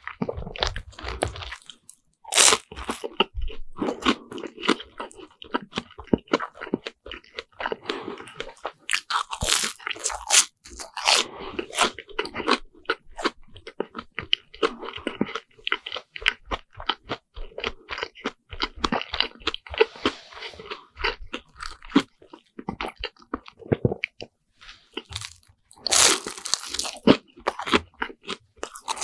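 Close-miked chewing of deep-fried Lunch Pack bread sandwiches: crisp crunching and wet mouth sounds throughout, with a few louder crunches. The loudest of these comes near the end, with a fresh bite into the fried crust.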